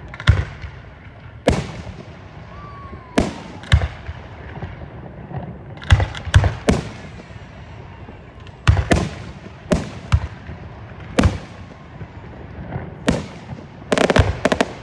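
Aerial fireworks shells bursting overhead: about a dozen sharp bangs at uneven intervals, each trailing off in a brief echo, with a quick run of pops near the end.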